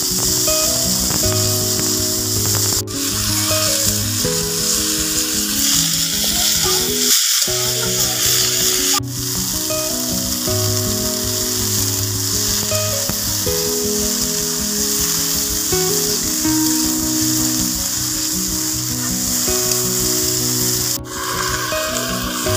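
Chopped gular (cluster fig) fruit sizzling as it fries in a kadai, the sizzle dying down near the end, over instrumental background music of held notes.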